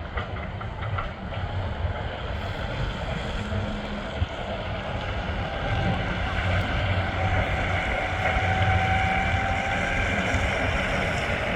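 Steady low engine rumble mixed with wind noise, with a faint steady tone joining partway through.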